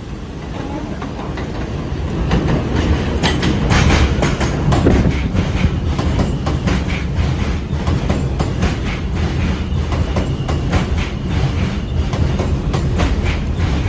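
R160 subway train on the F line coming in, louder from about two seconds in, with a low rumble and a rapid run of wheel clicks over the rail joints.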